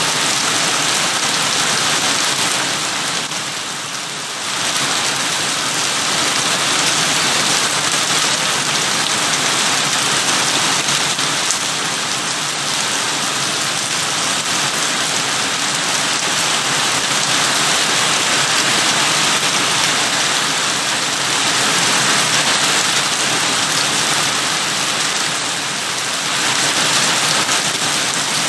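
Steady heavy rain falling on a surface, a dense continuous hiss of drops, easing briefly a few seconds in and again near the end.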